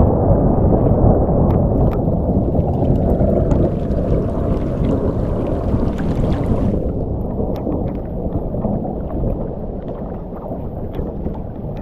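Thunder rolling and slowly dying away, a deep rumble that fades steadily, with scattered ticks of rain.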